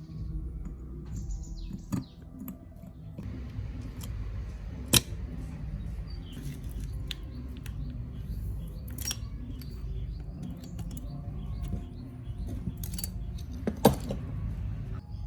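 Small metal parts and hand tools being handled, with light clicks and clinks and three sharper knocks, about 2, 5 and 14 seconds in.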